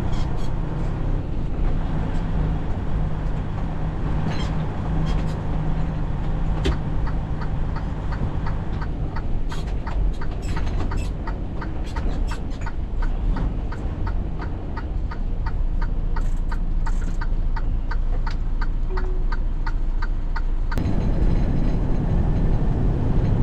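Semi-truck diesel engine running steadily, heard from inside the cab, with a quick, even ticking through the middle, typical of the turn-signal relay. Near the end the engine gets louder.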